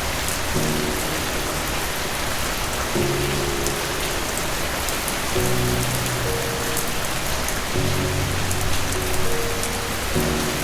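Steady rain falling, a dense hiss with many small drop ticks, under soft slow piano music whose low chords change about every two and a half seconds.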